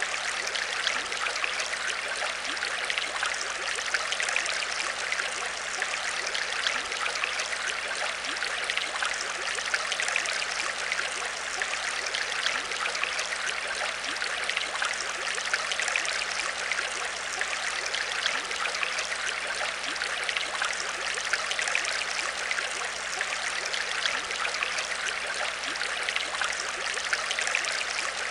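Aquarium water trickling and bubbling steadily, with fine crackling droplets and a faint, steady low hum underneath.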